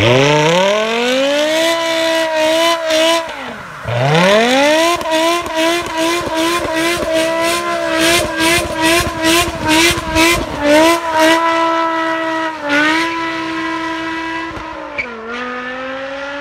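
BMW E60 M5's V10 through a Stage 3+ aftermarket exhaust, revved hard for a burnout: the revs climb fast at the start, drop briefly about four seconds in, then are held high and pulse about four times a second while the rear tyres spin. Near the end the revs fall and the sound fades as the car pulls away.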